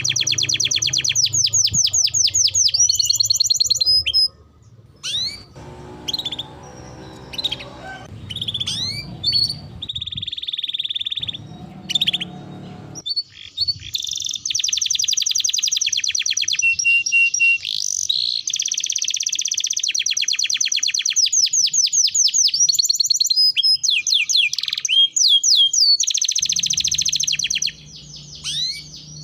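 Domestic canary singing long, fast rolling trills of repeated high notes, mixed with chirps and short pauses between phrases.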